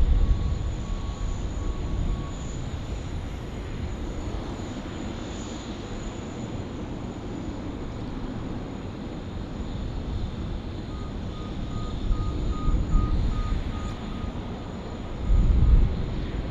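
Jet airliner engines running with a steady roar and deep rumble. A thin whine comes in about eleven seconds in, and the low rumble swells near the end.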